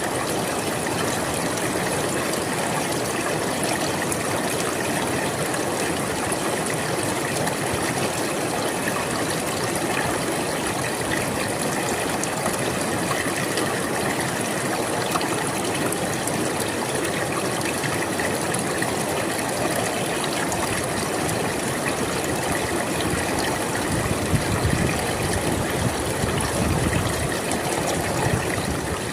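River water flowing, a steady rushing and splashing, with a deeper, slightly louder surge about three-quarters of the way through.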